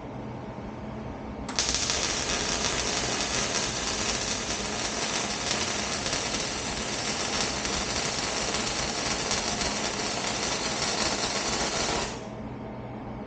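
Welding arc crackling steadily for about ten seconds as two pieces of steel exhaust pipe are welded together, starting sharply about a second and a half in and stopping about a second before the end.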